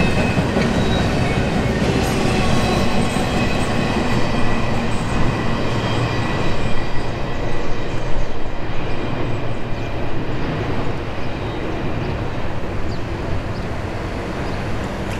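Double-stack intermodal well cars rolling past on jointed track, wheels clattering on the rails with a faint wheel squeal in the first few seconds. The sound dulls to a low rumble as the end of the train passes and moves away.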